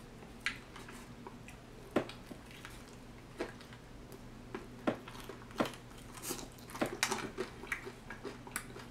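A person biting into and chewing a crispy fried chicken wing topped with crushed Flamin' Hot Doritos chips: irregular small crunches and mouth clicks, a few sharper bites among them. A faint low hum runs underneath.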